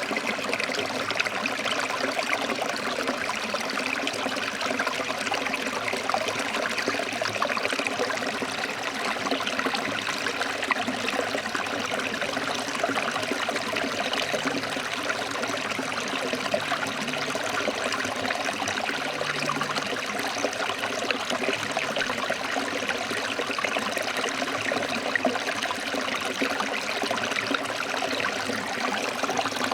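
Stream of water flowing and splashing over rocks, a steady rushing babble with fine bubbling detail.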